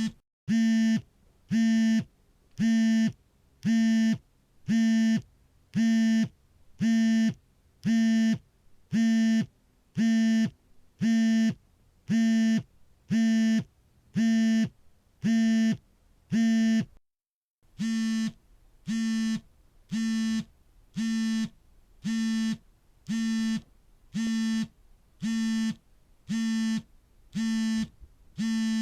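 Smartphone vibrating for an incoming call: short buzzes about one a second, with a brief break about two-thirds of the way through, after which the buzzes are slightly quieter.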